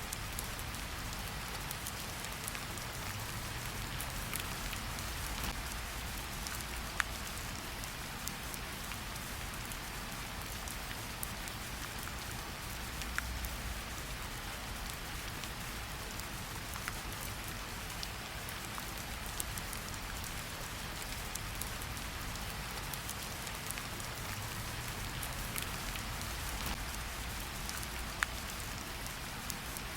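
Steady rain falling in a forest, a constant hiss with scattered individual drops ticking close by.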